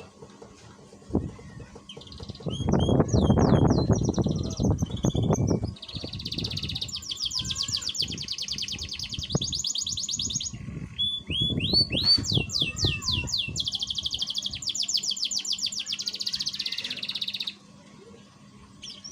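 Canary singing in full, active song: long runs of fast, even trills and rolls, broken by short pauses. A loud low rumbling noise comes in twice, the first one, a few seconds in, louder than the song.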